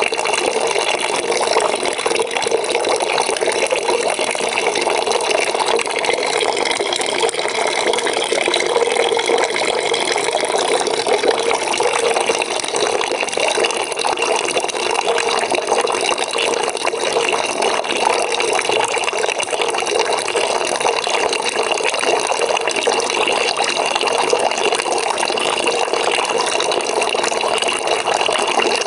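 Water pouring into a bucket as it fills: an even, unbroken rush of splashing that holds steady throughout.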